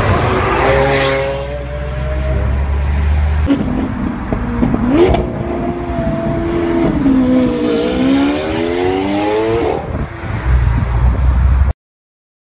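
Lamborghini Aventador's V12 engine revving and accelerating hard, its pitch climbing and dropping through the gears, with a sharp crack about five seconds in. A long rising pull near the end breaks off, and the sound cuts off suddenly just before the end.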